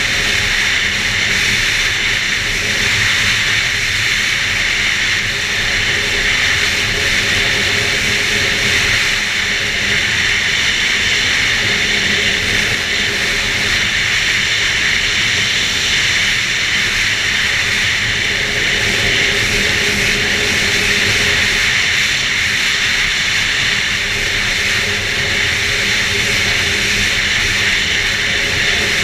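2011 Arctic Cat F8 Sno Pro snowmobile's two-stroke twin engine running at a steady cruise, with a steady rushing noise over it.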